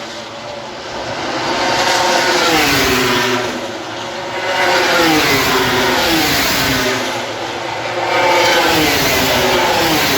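Race motorcycles in MotoGP free practice passing at speed one after another, with three swells in loudness; each engine's pitch falls as the bike goes by.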